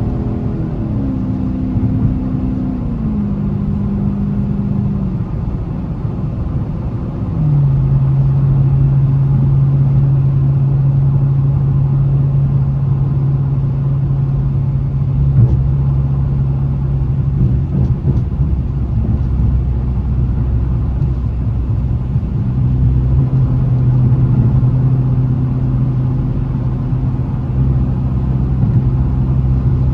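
Dodge Challenger Scat Pack's 392 (6.4-litre HEMI V8) engine under way while driving. Its note steps down in pitch a few times early on, then about seven seconds in it gets louder and settles into a steady drone.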